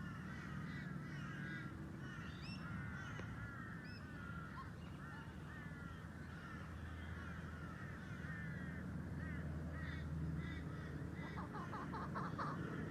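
Birds chirping, with many short, overlapping calls and a quick run of rapid notes near the end, over a low steady rumble.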